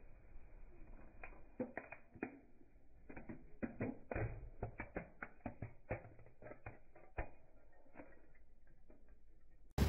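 Irregular sharp cracking and snapping clicks of something being crushed, coming thickest in the middle, followed by a sudden loud thump just before the end.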